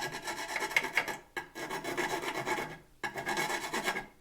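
A hand file rasping on the aluminum mount in three long back-and-forth strokes with short pauses between them, working the freshly drilled hole to size.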